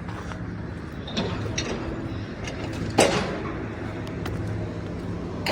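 Building demolition: an engine runs steadily under scattered knocks and clanks, and one loud crash of falling debris comes about three seconds in.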